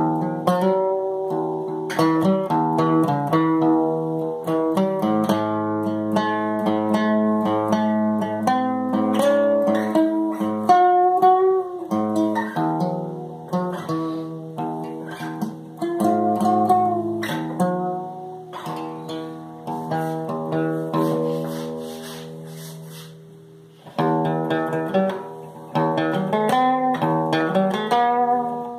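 Guitar playing a tune in picked single notes and chords, the notes ringing on. Near the end the playing dies away, then starts again with a strong chord.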